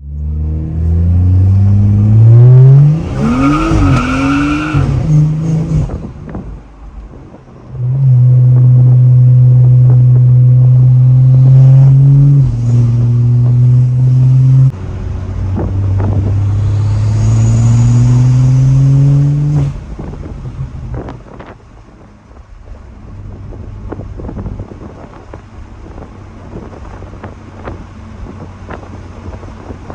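BMW B58 turbocharged 3.0-litre inline-six running through a catless downpipe and straight-piped exhaust, pulled hard under load: the engine note climbs with revs, holds loud and high, drops in steps at gear changes and climbs again. About twenty seconds in the throttle lifts, and the exhaust settles to a quieter run with scattered pops.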